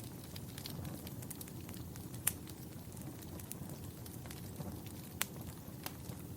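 Fireplace fire crackling: a steady low rush of flames with scattered small snaps and two louder pops, about two seconds in and again about five seconds in.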